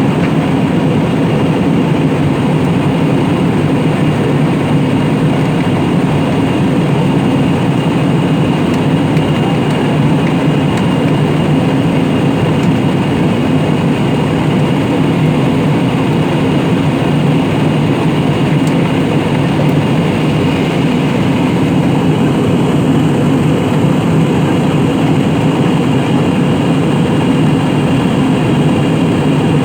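Steady engine and air noise heard inside an airliner cabin in flight: an unchanging low drone with a faint high whine above it.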